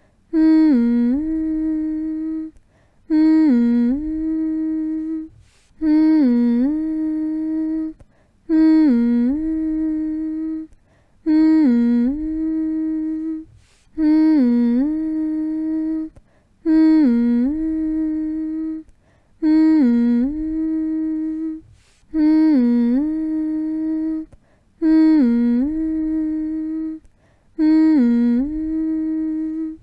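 A voice humming one steady note in repeated phrases, about one every two and a half to three seconds, each opening with a short dip in pitch, with brief breaks between them. It is a soothing hum to lull a baby to sleep.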